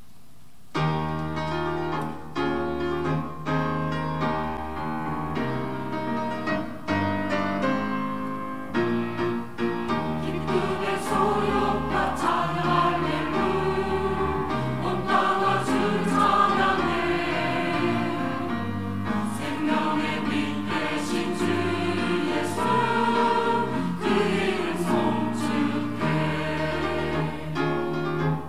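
Church choir singing a gospel anthem. The music starts about a second in and carries on steadily.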